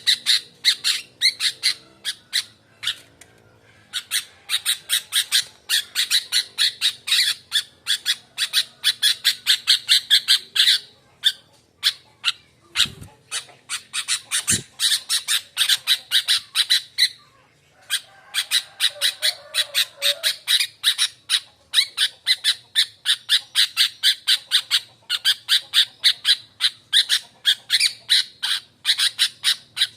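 Sooty-headed bulbul (kutilang) giving a harsh, rapid chattering call of sharp notes, several a second, in long runs with a few short breaks. This is the excited call used as a lure to set other bulbuls calling.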